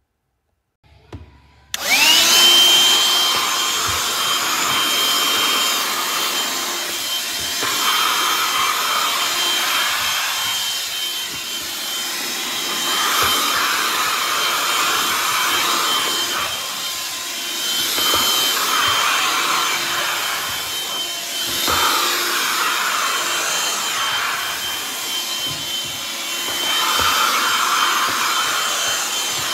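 BLACK+DECKER dustbuster QuickClean cordless handheld vacuum switched on with a click, its motor spinning up with a rising whine about two seconds in. It then runs steadily with a high whine, its rushing air swelling and fading every few seconds.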